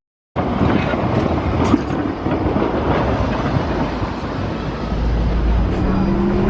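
Ride noise inside a moving city public-transport vehicle: a steady rumble, with a rising motor whine near the end as it speeds up.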